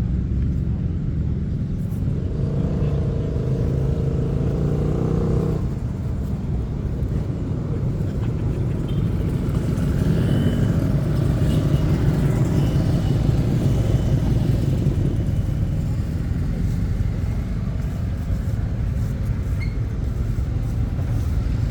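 Motorcycle engines running as bikes arrive. One engine holds a steady note from about two seconds in until it cuts off around five and a half seconds, and another rises and falls in pitch around ten seconds in.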